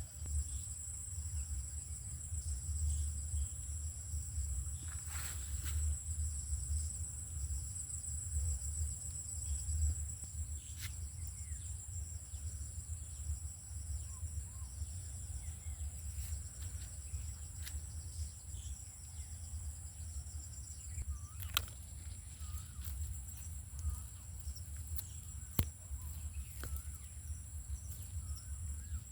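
Outdoor ambience dominated by a steady, high-pitched insect trill with a fast pulsing texture, over a constant low rumble. A few sharp clicks stand out, one about five seconds in and two more near the end.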